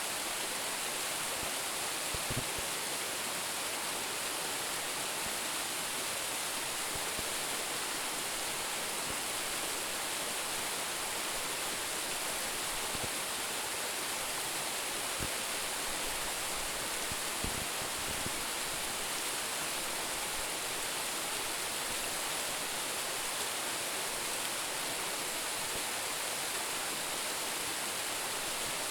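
A waterfall of about ten metres' drop pouring steadily, an even, unbroken hiss of falling water that is strongest in the high range.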